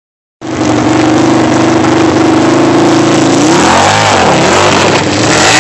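Motorcycle engine running loud at steady high revs, then revved up and down in several quick swells from about three and a half seconds in.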